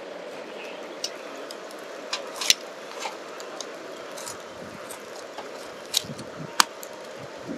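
Irregular sharp clicks and snaps from a small wood-and-charcoal fire in a lightweight fire pit as it gets going, over the steady rush of a creek.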